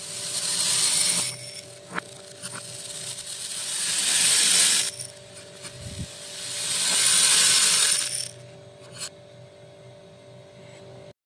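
Small beads pouring in three separate streams, a dense rattling hiss that builds and then cuts off sharply each time, with a single click or two between pours.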